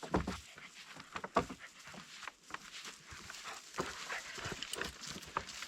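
A dog panting and moving close by, amid irregular rustling and a few heavier thumps.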